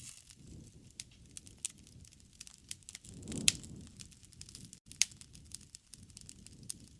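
Campfire crackling and popping: a steady scatter of small sharp snaps over the soft low rumble of the flames, with a brief flare-up about three and a half seconds in and two louder pops, one at that flare and one about a second and a half later.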